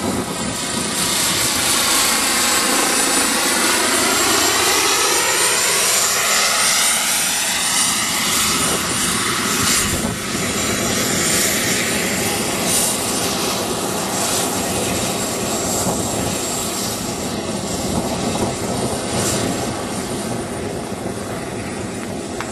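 Turbine-powered radio-controlled model helicopter in flight: a steady high-pitched turbine whine over the rotor noise. The sound sweeps and shifts as the helicopter moves about.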